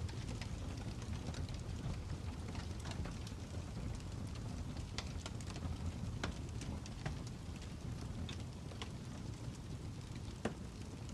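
Wood fire crackling: irregular pops and snaps over a low, steady rumble, with one sharper pop near the end.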